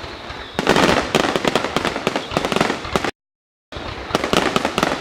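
Fireworks display going off in a dense barrage of rapid bangs and crackling. The sound cuts out completely for about half a second a little past the middle, then the barrage resumes.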